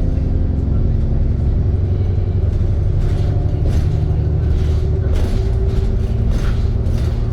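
ADL Trident II Enviro 400 double-decker bus running, a steady low engine drone whose pitch shifts slightly. From about two and a half seconds in, short rattles and clatters come at irregular intervals.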